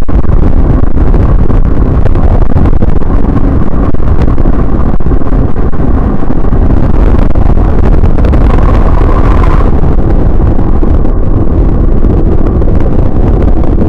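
Steady, heavy wind buffeting on the microphone of a motorcycle riding at speed, with engine and road noise underneath.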